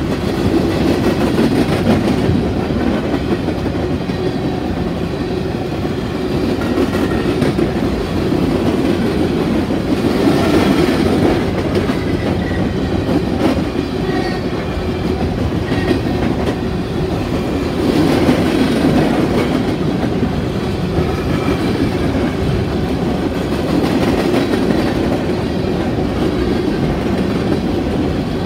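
Loaded-or-empty open-top coal cars of a Union Pacific coal train rolling past at close range: a steady noise of steel wheels on the rails that swells and eases a little as the cars go by.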